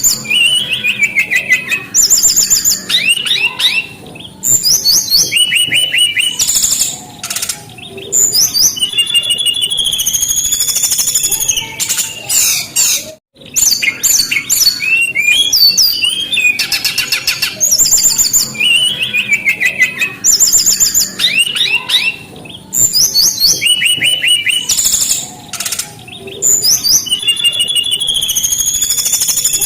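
Brown-chested jungle flycatcher singing loudly in quick, varied phrases of rapid trills and slurred whistles, one after another, with a brief break about halfway through.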